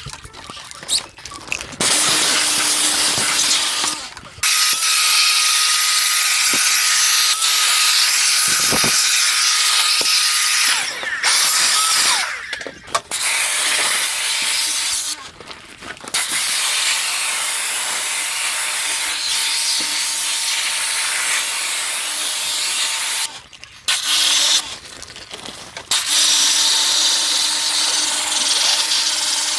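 A high-pressure spray hissing in several long bursts, each several seconds long, with short breaks between them as the trigger is released.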